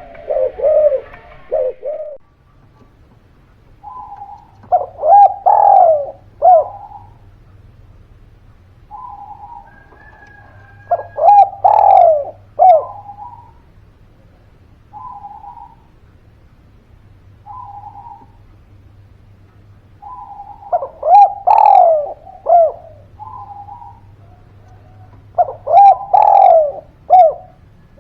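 Spotted dove (derkuku, tekukur) cooing in a lively run of song: four loud phrases of several rolling coos each, with softer single coos in the gaps between them.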